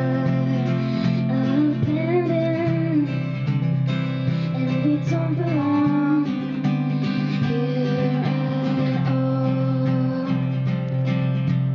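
Live music: a strummed acoustic guitar, with a woman singing over it at times.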